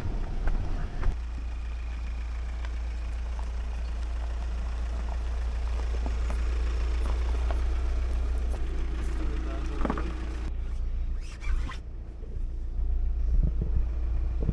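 A vehicle on the move, a steady low rumble of engine and road noise. About ten seconds in it cuts to a quieter, thinner ambience with a few knocks.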